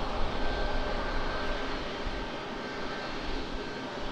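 Jet airliner engines running, a steady rush of noise with a faint steady whine.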